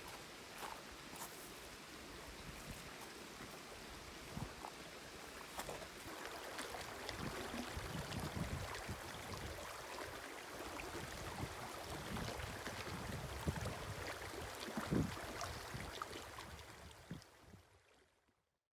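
A river stream murmuring steadily, with scattered faint clicks over it, fading out near the end.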